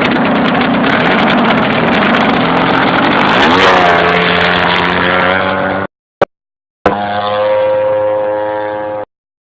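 Desert Aircraft DA-100 twin-cylinder two-stroke gasoline engine of a large-scale radio-controlled Yak 54 model plane running loud. It revs up to a higher, steady pitch about three and a half seconds in. The sound cuts out abruptly twice, with a short click between.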